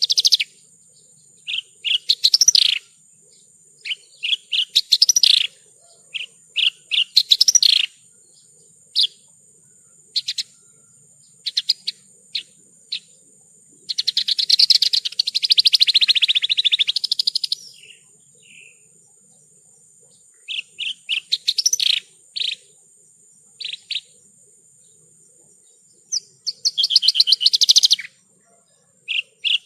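Javan bush lark (branjangan) singing: short bursts of high chirps and whistled notes, with a longer, fast rattling trill about halfway through and another near the end.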